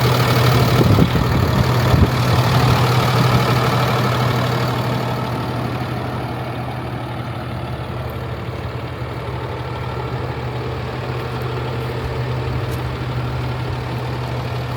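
Cummins B6.7 inline-six turbo-diesel of a 2018 International 4300 truck idling with a steady low hum. It is louder for the first four seconds or so, then settles a little quieter and duller.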